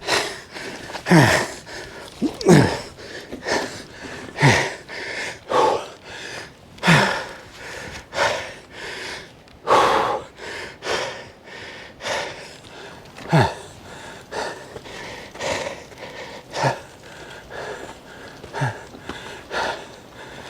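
A person breathing hard and gasping, loud breaths every second or two, several of them with a short falling vocal groan: winded after struggling up a steep hill on a bike.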